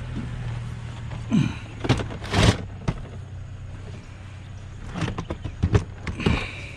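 Knocks, bumps and clatter of heavy scrap being handled and loaded into a vehicle, in two bursts, over a steady low hum.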